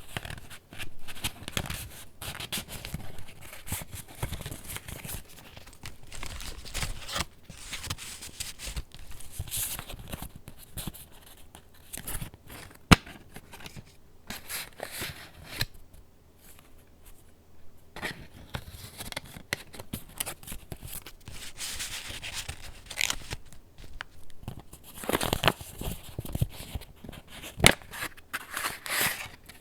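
Paper pages of a handmade junk journal being handled and turned: rustling and crinkling with sharp little taps and flaps. There is one sharper tap about halfway, a quieter lull just after it, and busier rustling near the end.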